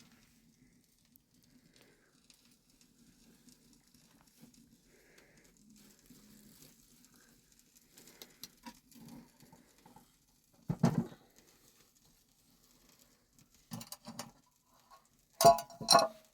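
A faint low hum, then a few sharp knocks and clatters. The last two, near the end, are the loudest and ring briefly.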